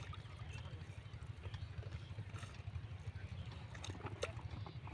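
Small single-cylinder diesel engine of a 5 hp water pump running steadily with a fast, even chugging, and faint clicks above it.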